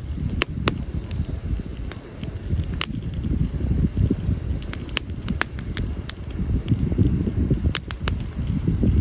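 Wood campfire burning: sharp crackles and pops at irregular intervals over a steady low rumble.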